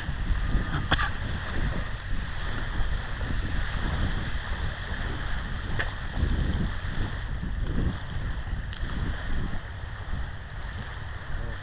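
Wind buffeting the microphone in uneven gusts, a low rumbling rush over a steady outdoor hiss, with a couple of faint clicks.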